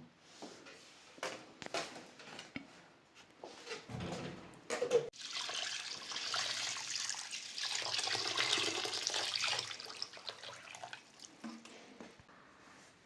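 A few light knocks and clatters, then water running or being poured for about six seconds before it tapers off.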